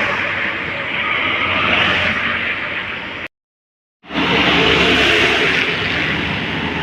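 Heavy road vehicles passing close by, a steady rush of engine and tyre noise. About three seconds in it cuts out to dead silence for under a second, then returns with a deeper engine hum.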